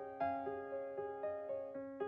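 Gentle solo piano background music, a soft repeating pattern of notes struck about every half second.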